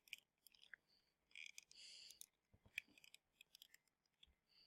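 Near silence with a few faint scattered clicks and a brief faint hiss about a second and a half in.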